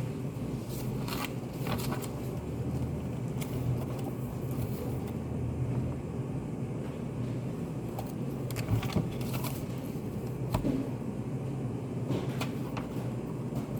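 Study cafe room ambience: a steady low hum of ventilation or air conditioning, with scattered small clicks and rustles from people working at desks.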